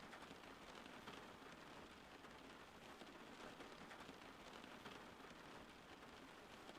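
Steady rain falling, faint and even, with many small drop ticks through it.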